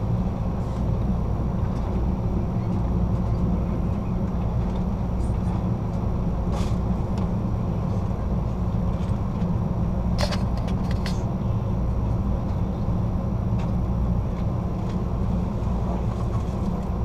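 Steady low rumble of an Amtrak California Zephyr passenger car rolling along the track, heard from inside the rear car, with a few sharp clicks about 7 and 10 seconds in.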